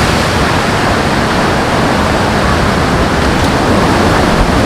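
Steady rushing of sea surf, an even hiss-like noise with no separate waves standing out.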